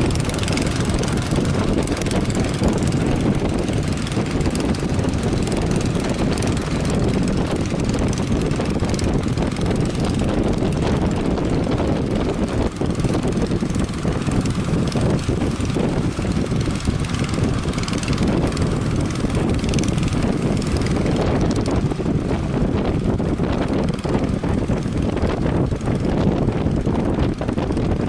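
Strong wind buffeting the microphone: a loud, steady rumble with no letup.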